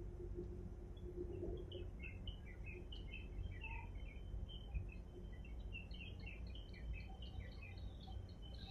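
Many small birds chirping, short irregular high calls overlapping throughout, over a steady low rumble.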